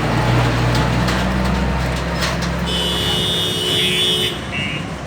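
Heavy truck engine running low as it goes by. About halfway through, a high, piercing tone sounds for about a second and a half, followed by two short, fainter ones.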